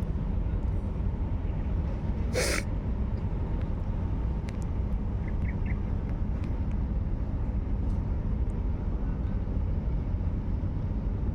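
Steady low rumble, with one short hiss about two seconds in.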